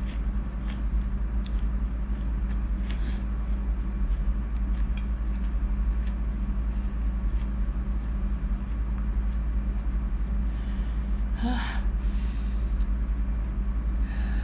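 Steady low hum, with faint scattered chewing and mouth clicks from eating squid, and a short breathy sound about eleven seconds in.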